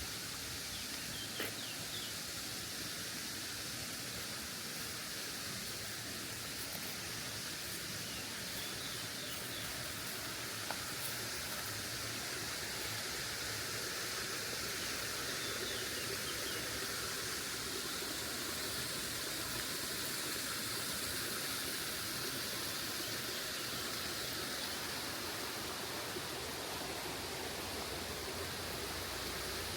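Steady rush of falling water from a waterfall, an even hiss with no change, and a few faint short chirps in the first few seconds.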